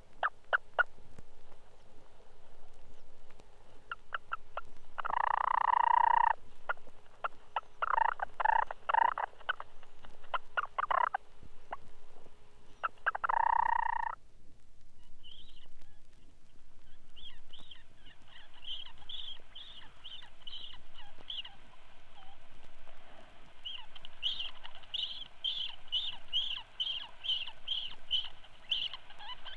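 Purple sandpiper calls. For the first half, harsh chattering calls come in bursts. After a short pause, a run of short high notes repeats about two to three times a second.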